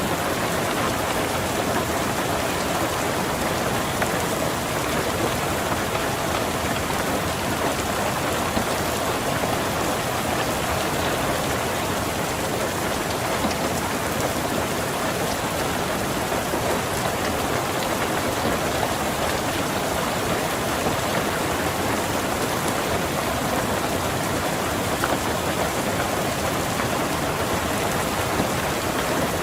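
Steady rain pattering on a car's roof and windows, heard from inside the car: an even, unbroken hiss of drops with no change in strength.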